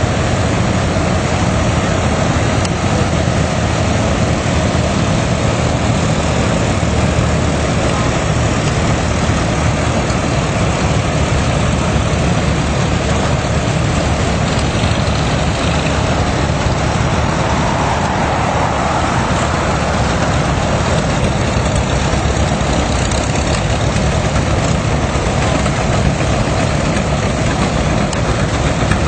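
Antique farm tractor engines running at low, steady speed, loud and continuous.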